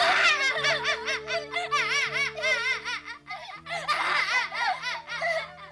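A girl's voice crying in quick, shaking sobs over soft sustained background music, breaking off briefly about three seconds in and then sobbing again.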